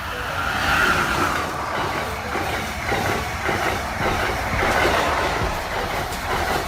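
Metro train running along the track, its wheels clacking over the rail joints above a steady running noise.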